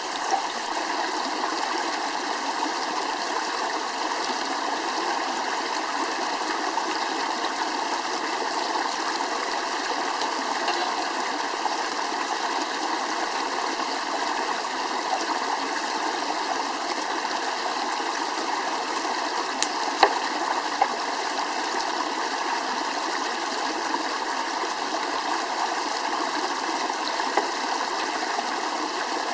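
Steady rushing of a flowing stream, with a few sharp clicks over it, the loudest about two-thirds of the way in.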